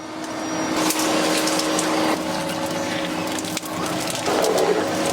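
Factory machinery running: a steady hum under dense crackling and clicking, swelling up over the first second and then holding loud.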